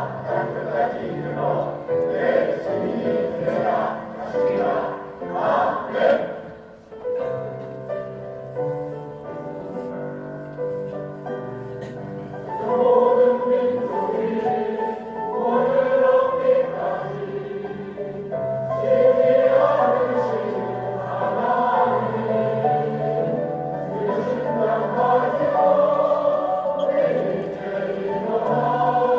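Church choir singing a hymn with instrumental accompaniment. The sound thins to a softer passage about a quarter of the way in, then the full choir swells back louder.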